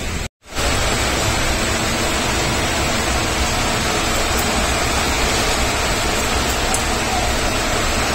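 Steady, loud rushing noise inside an Indian railway coach, typical of the train running along the track. It drops out briefly for a moment near the start.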